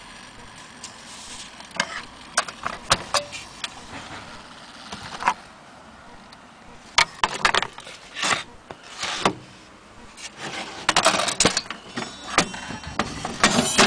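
Irregular clicks, knocks and short scraping rubs from the wooden case of an antique German Westminster-chime wall clock being handled.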